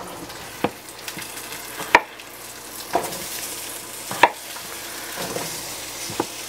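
Halved potatoes sizzling in avocado oil and rendered kielbasa fat in a hot wok. About six sharp knocks, roughly one a second, as more potato pieces are cut and dropped into the pan.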